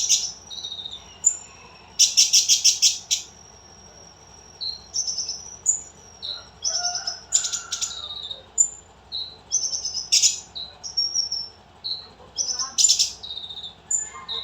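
Lovebird singing: loud, rapidly pulsed chattering trills, about four of them, with short, high, sliding chirps in between.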